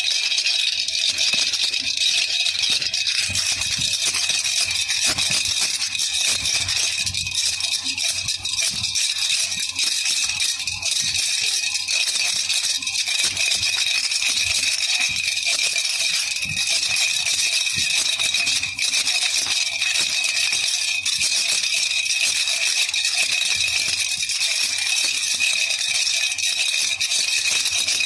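Baby rattle (jhunjhuna) shaken continuously: a dense, steady high-pitched jingling with no pauses.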